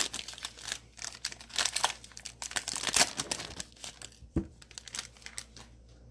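Plastic trading card pack wrapper being torn open and crinkled: a dense run of crackles that thins to a few soft ticks after about four seconds.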